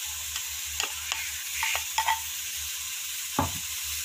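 Diced vegetables (carrots, potatoes, beans, green peas) tipped into a hot pressure cooker over the fried masala, sizzling steadily. Scattered clicks of the bowl and spoon against the pot, with a louder knock about three and a half seconds in.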